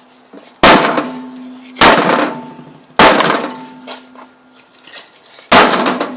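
Four hard hammer blows on a microwave oven's metal casing, each a loud clang that rings on with a low hum before dying away. The first three come about a second apart; the fourth follows after a pause of about two and a half seconds.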